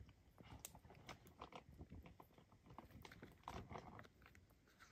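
Faint, close chewing and mouth sounds of a man eating lasagna: soft irregular clicks and smacks.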